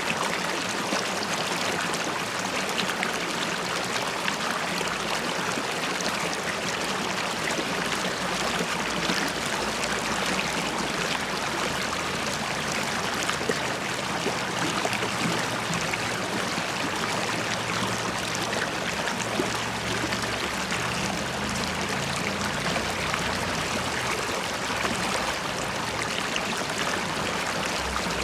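River water flowing and bubbling steadily, with a low rumble underneath that grows from about halfway through.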